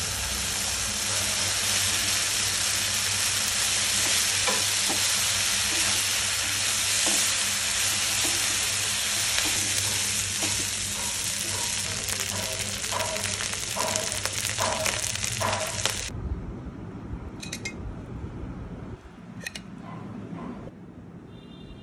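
Fried rice with chicken, prawns, egg and vegetables sizzling in a hot pan, stirred and tossed with a wooden spatula. The spatula's scrapes and knocks come more often in the second half. The sizzling cuts off suddenly about three-quarters of the way through, leaving a few light clicks.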